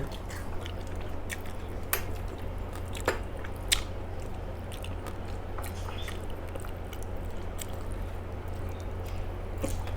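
Close-up chewing of a meal of rice and fried fish: soft wet mouth sounds with scattered small clicks and smacks, over a steady low hum.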